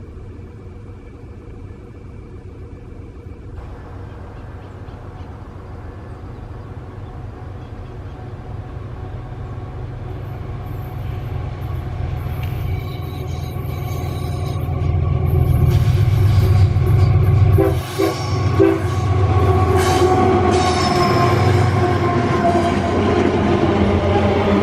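Empty iron-ore train hauled by diesel locomotives approaching and passing: a low rumble grows steadily louder, and in the second half a multi-tone locomotive horn sounds over it.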